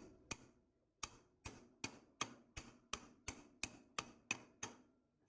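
A run of evenly spaced sharp clicks, about three a second, lasting nearly four seconds and then stopping.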